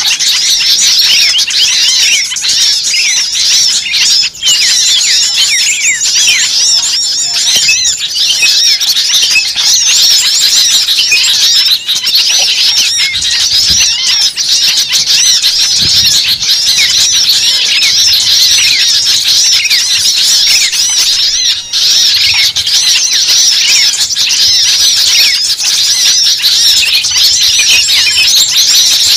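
Bird-lure recording of many small birds calling noisily at once: a dense, unbroken chorus of rapid high chirps and twitters.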